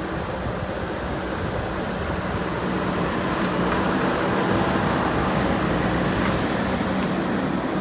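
JCB backhoe loader's diesel engine running steadily, growing somewhat louder about two and a half seconds in.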